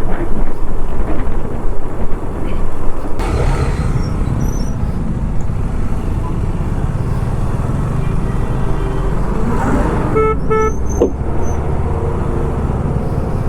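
Single-cylinder engine of a KTM 390 Adventure motorcycle running steadily under way, with wind buffeting the microphone in the first few seconds. About ten seconds in, a vehicle horn gives two short beeps.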